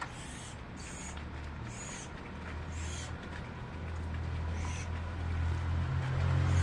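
Small birds giving short, high chirps about once a second, over a low hum that grows louder toward the end.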